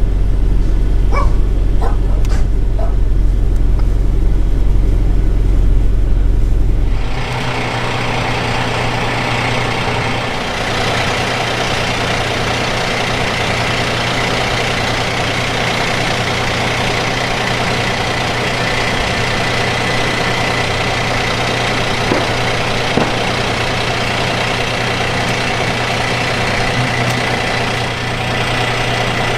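Fire engine's diesel running steadily: a deep rumble that changes abruptly about seven seconds in to a broad hiss over a steady low hum.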